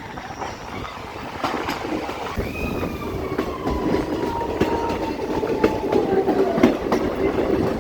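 Train wheels running on the track, with repeated sharp clicks over the rail joints. Through the middle a thin squeal slides slowly down in pitch, like wheels squealing against the rails on a curve.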